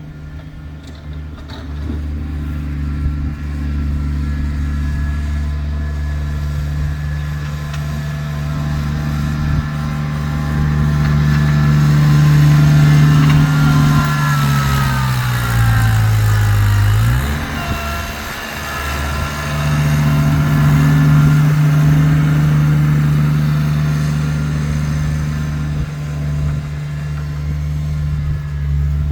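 Kubota tractor's diesel engine running steadily, with a fainter whine above it. About halfway through, the engine note sags for a few seconds and then picks back up sharply.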